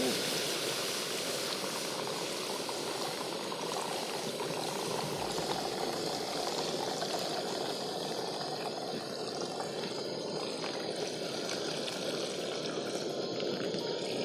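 Milk poured into a very hot kadhai (Indian wok), a steady hiss of pouring liquid sizzling on the hot metal.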